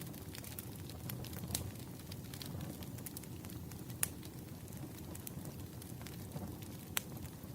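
Wood fire burning: a steady low rumble of flames with scattered sharp crackles and pops from the burning firewood, two louder pops about four and seven seconds in.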